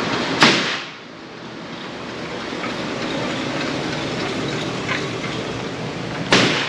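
A range target carrier running along its track as it brings the paper target back, a steady mechanical rolling noise. Two short loud bangs, like gunshots, come about half a second in and again about six seconds later.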